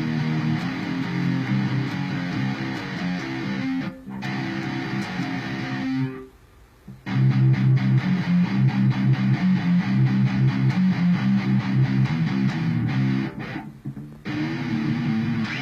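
Electric guitar through an amp rig playing riffs. It stops for about a second partway through, then comes back with a fast, evenly repeated riff, and breaks off briefly again near the end.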